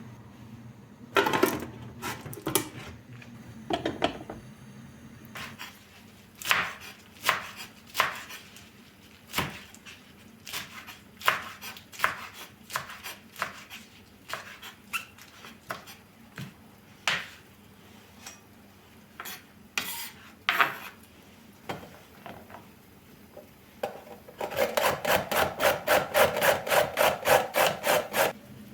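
Kitchen utensils knocking and scraping on wood at irregular intervals, then near the end a quick, even run of strokes, about four to five a second.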